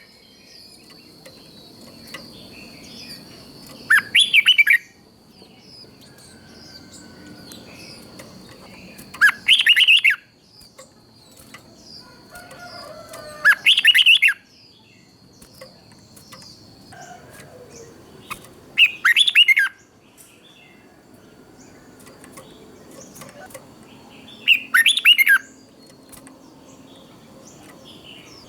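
Red-whiskered bulbul singing short, loud, warbling phrases about a second long, five times, roughly every five seconds, with faint chirping between them. A thin, steady high tone in the background stops about halfway through.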